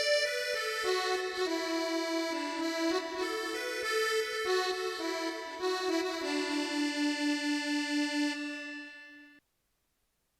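Korg Triton keyboard playing a single-line melody on an Isan-style (Thai northeastern folk) patch. It ends on a low note repeated about four times a second, then cuts off suddenly about nine seconds in.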